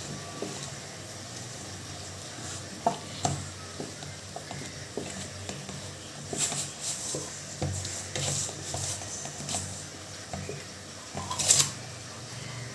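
Metal kitchen utensils knocking, scraping and clinking against pots and dishes in scattered short strokes, with a louder clatter near the end.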